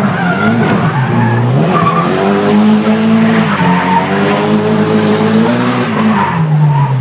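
Nissan S14 200SX engine revving, its pitch rising and falling again and again with throttle and gear changes, while the tyres squeal several times through the corners.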